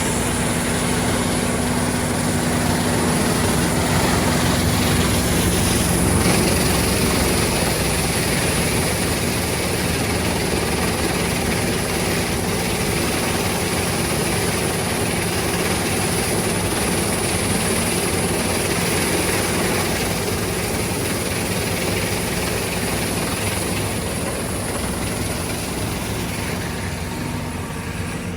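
A large machine engine running steadily, a dense mechanical din with a low hum; it eases off slightly near the end.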